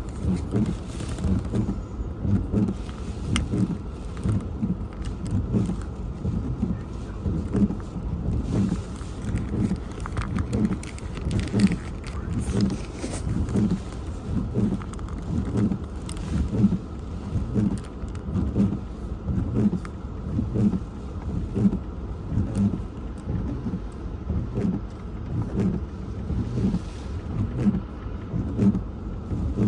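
Hurricane-force wind and rain battering a parked car, heard from inside the cabin as a heavy low rumble with swells of rain hiss, and a regular thump about once a second throughout.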